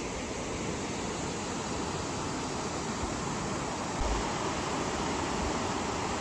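Steady rush of flowing water, a river or waterfall, with no pitch, a little louder from about four seconds in.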